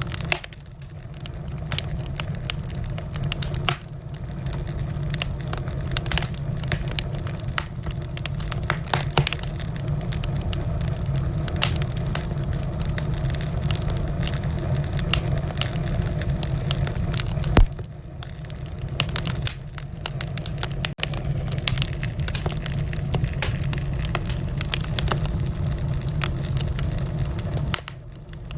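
Wood fire in a fireplace crackling, with irregular sharp pops over a steady low rumble of the flames. One pop stands out louder about two-thirds of the way through.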